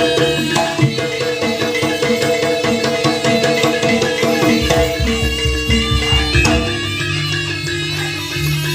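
Live traditional jaranan (kuda kepang) ensemble music: hand drums keep a busy, steady rhythm under held melodic instrument lines.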